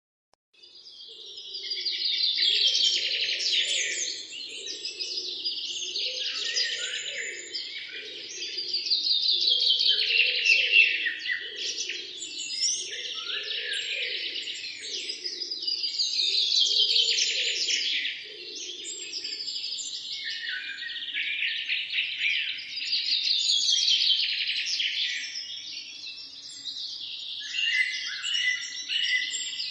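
A chorus of songbirds chirping and singing over one another, fading in over the first couple of seconds and then rising and falling in swells every several seconds. A fainter low, pulsing sound runs underneath for about the first two-thirds.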